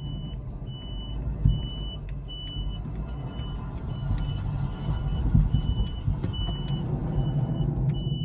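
Reversing beeper on an electric mini truck, sounding a short high beep about three times every two seconds, over the low rumble of the truck rolling backwards.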